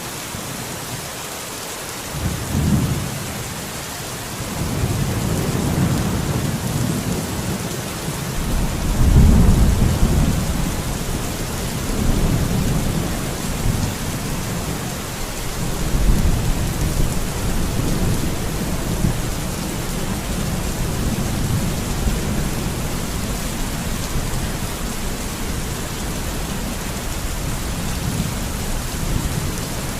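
Steady rain falling, with low rolling thunder rumbles that begin about two seconds in and swell several times, loudest around the middle.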